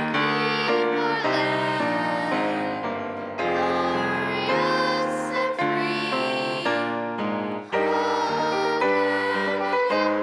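Children singing a song, with piano accompaniment.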